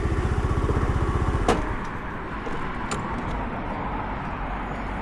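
Motorcycle engine idling with an even, rapid putter, then stopping about a second and a half in with a sharp click. A quieter steady background follows, with another faint click a little later.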